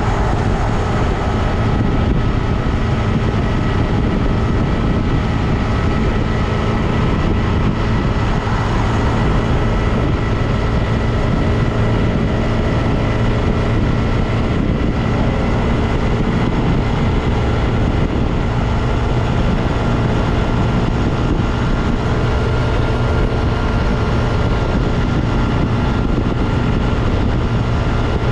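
2022 Honda Grom's single-cylinder engine and drivetrain running at a steady speed under way, with heavy wind rumble and a steady high whine over it.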